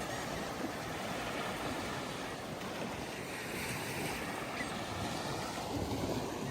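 Ocean surf breaking and washing steadily onto a sandy beach, with some wind on the microphone.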